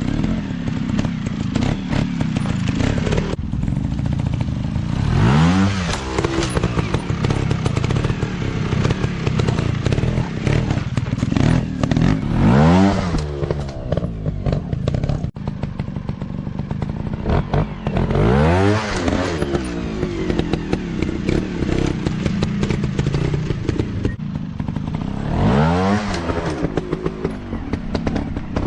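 Dirt bike engine running hard, revving up in rising sweeps about four times, with steady rattling and knocks throughout.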